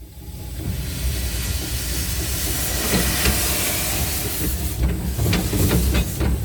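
Small steam locomotive moving off with its cylinder drain cocks open, steam hissing out as condensate is cleared from the cylinders, over a low rumble. The hiss builds in the first second and then holds steady, with a few clicks near the end.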